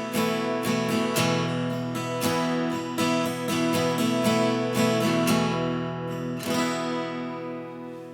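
Seagull S6 Mahogany acoustic guitar being strummed in chords, the last chord struck about six and a half seconds in and left to ring and fade out.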